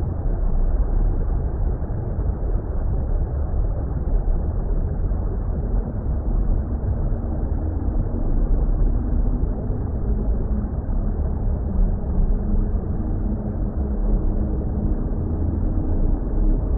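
Steady deep water rumble, muffled and heavy in the lows, the kind of underwater ambience noise made for relaxation. Faint humming atmospheric tones sit above it from about the middle on.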